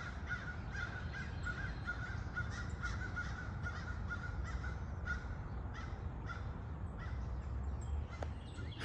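Crows cawing: a rapid run of short caws that thins out after about five seconds, over a low steady rumble.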